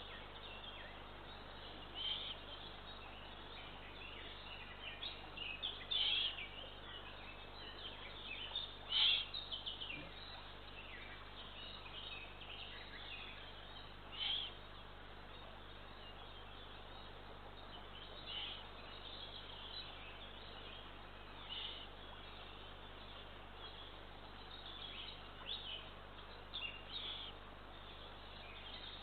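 Eurasian eagle owl chicks calling at the nest: short, hoarse calls at irregular intervals over a steady background hiss, loudest about six and nine seconds in.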